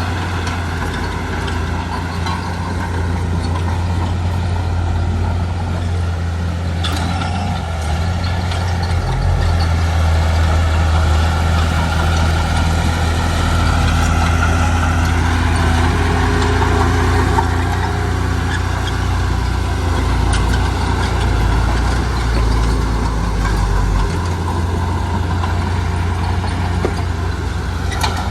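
Heavy diesel construction machinery running steadily, a continuous low engine drone. The engine note shifts about a third of the way in and again near the end.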